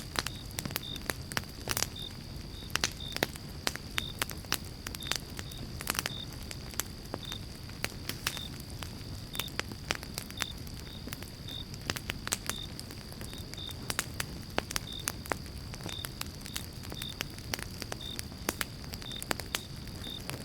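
Campfire of pine logs burning, with steady crackling and frequent sharp pops over a low, even roar of the flames.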